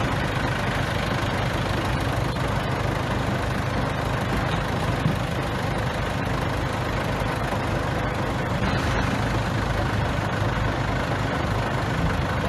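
Bulldozer's diesel engine running steadily with a low hum, with one brief knock about five seconds in.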